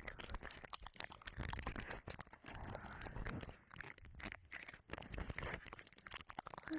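Close, wet ear licking and mouth sounds on a 3Dio binaural microphone's silicone ear: a dense, irregular run of small clicks and smacks.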